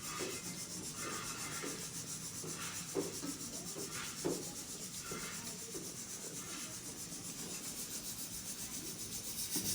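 Chicken and spices frying in an oiled karai: a steady sizzle, with a few short scrapes of a spatula stirring it.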